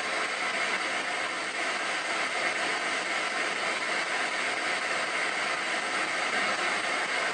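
Ghost box radio in reverse sweep, giving a steady hiss of static.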